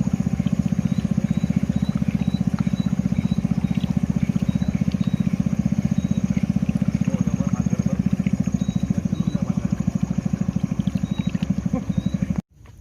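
A small engine running steadily with a fast, even putter. It cuts off abruptly near the end.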